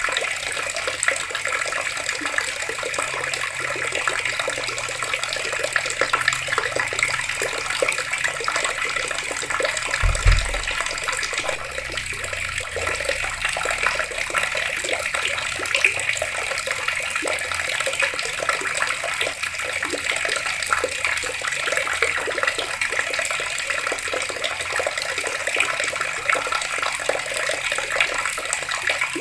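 Water running steadily from taps and splashing, an even rushing with fine spatter. A brief low thump about ten seconds in.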